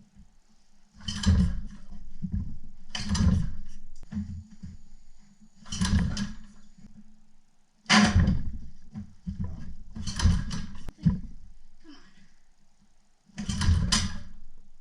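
Old 1972 Hirth engine being cranked over and over in an attempt to start it, heard as about seven short bursts of mechanical noise a second or two apart, over a faint steady hum.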